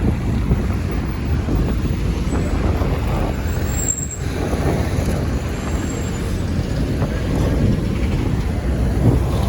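Steady rumble of motorway traffic, trucks and cars going by, with a brief lull about four seconds in.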